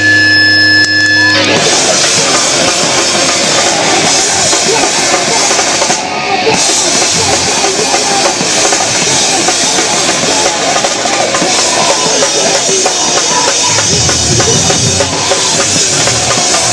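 Live rock band playing: a held guitar chord rings for about the first second and a half, then the full band with drum kit comes in and plays on.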